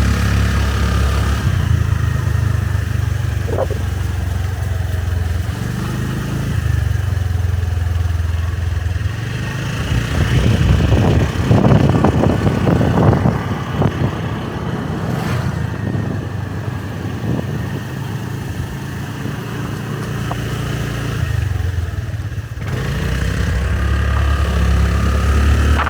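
Motorbike engine running under way, its note stepping up and down several times as the throttle changes. A louder, rougher stretch comes about ten seconds in and lasts a few seconds.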